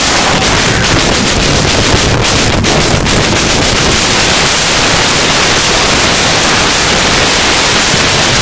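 Loud, steady rushing of wind buffeting the microphone, with a few scattered clicks.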